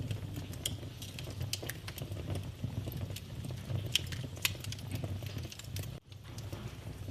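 Wood fire in a fireplace crackling, with irregular sharp pops over a steady low rumble of the flames. The sound drops out briefly about six seconds in.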